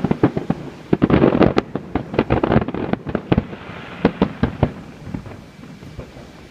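Fireworks display: aerial shells bursting in rapid, overlapping salvos of sharp bangs, thinning to scattered, quieter reports over the last couple of seconds.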